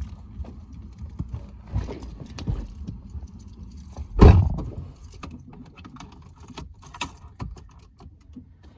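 Handling noises: scattered clicks and clinks over a low rumble, with one heavy thump a little past four seconds in.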